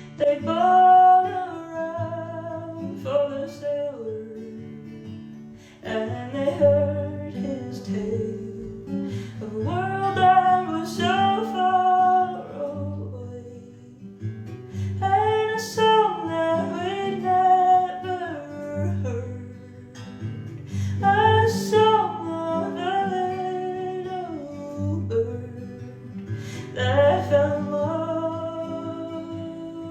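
A woman singing a slow folk ballad to her own acoustic guitar accompaniment, with long held, sliding vocal notes over gently plucked and strummed chords.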